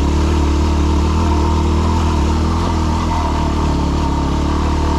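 Yamaha WR250R's single-cylinder four-stroke engine running steadily at even revs while riding.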